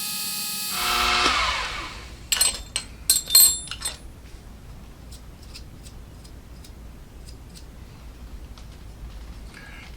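Small milling machine's spindle motor running with a steady whine, then switched off about a second in, its pitch falling as it winds down. A few sharp metallic clicks and clinks follow, the loudest about three seconds in.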